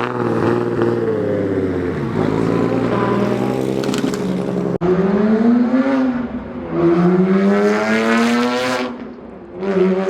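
Car engines revving and accelerating, their pitch climbing and falling several times, with an abrupt cut about halfway through.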